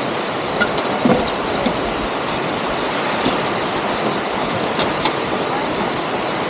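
Waterfall's water rushing steadily, with a couple of faint clicks near the end.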